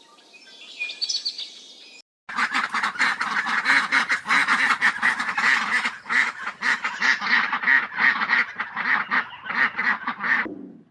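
Faint high chirping for about two seconds, then after a short break a long run of rapid, repeated animal calls, several a second, that cuts off abruptly near the end.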